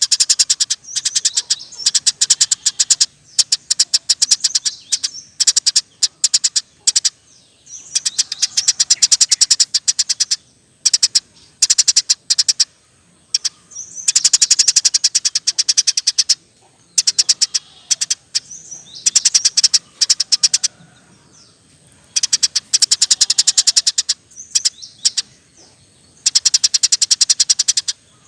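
Eurasian tree sparrow chirping in fast rapid-fire rolls of high, sharp chirps. The rolls come in bursts of one to two seconds with short pauses between.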